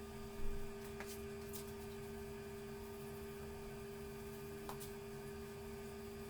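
Steady electrical hum made of two constant tones, with a low rumble beneath and a couple of faint clicks.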